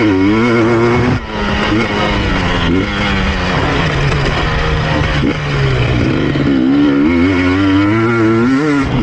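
KTM EXC 250 TPI two-stroke engine revving up and down as the bike is ridden hard on a motocross track. The throttle is chopped briefly about a second in, and the revs swing sharply through the second half.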